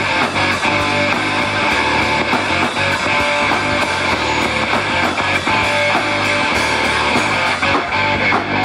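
Live rock band playing an instrumental passage: guitar-led, with a regular beat running through it.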